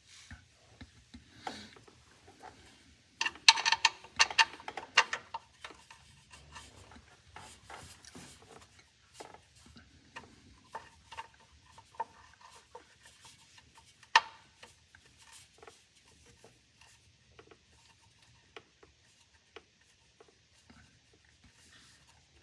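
Wire brush scrubbing a bolt clean: a burst of rapid scratching strokes about three to five seconds in, then lighter scattered scratches and small clicks, with one sharp click about fourteen seconds in.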